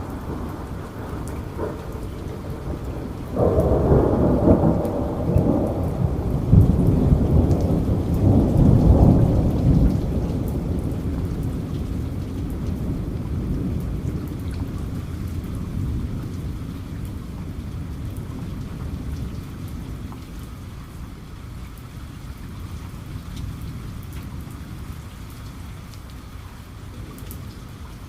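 Steady rain falling, with a roll of thunder that breaks in suddenly a few seconds in, rumbles loudest for several seconds, then slowly dies away.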